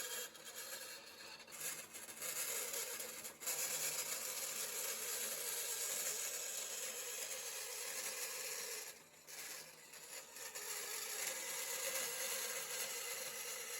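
Bandsaw cutting thin sheet steel, a steady hissing cut with a running tone under it. It eases off twice, briefly near the start and for about a second and a half around nine seconds in, as the piece is turned or pulled back from the blade.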